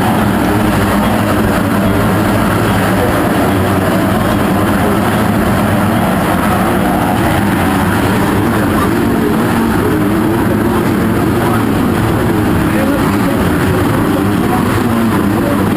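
Loud, steady din of dirt bike engines running, mixed with indistinct voices.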